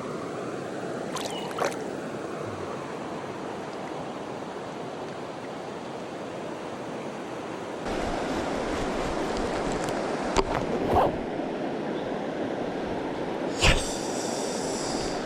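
Steady rush of river water flowing over riffles. The rush grows louder about eight seconds in, and a few brief knocks come through, the loudest near the end.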